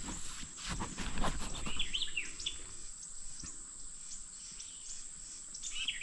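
Outdoor ambience with a few short bird chirps about two seconds in and again near the end, over a steady high-pitched whine, with a few soft knocks in the first second or so.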